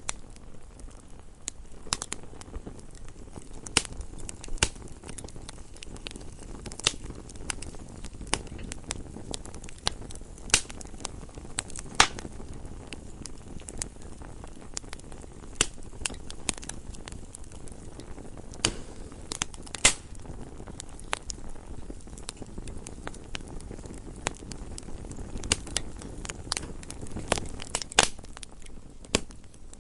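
Wood fire burning in a fireplace, crackling with irregular sharp pops over a low steady rustle of the flames.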